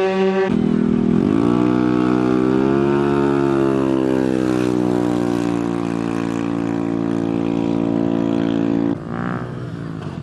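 Small motorbike engine revving up, then holding a steady high pitch for several seconds before dropping away near the end.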